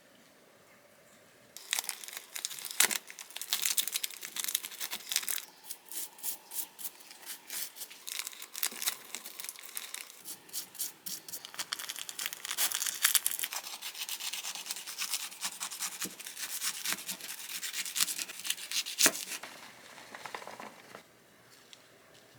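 Crinkling and tearing: a dense run of small, sharp crackles that starts about two seconds in and stops about a second before the end.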